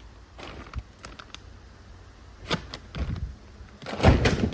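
Handling noise from bags of smoking wood chips being picked up and shown: scattered clicks and rustles with a sharp tap about two and a half seconds in, then louder low rumbling and buffeting on the microphone near the end.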